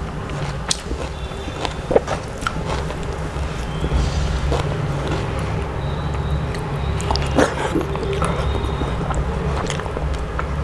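Close-miked eating: chewing and sharp wet mouth clicks, with fingers squishing and mixing mashed food on a clay plate, over a steady low hum.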